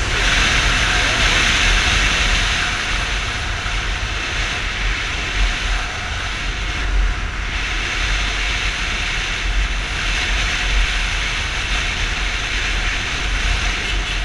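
Yamaha Fazer 250 motorcycle on the move: steady rush of wind over the microphone over a low engine rumble.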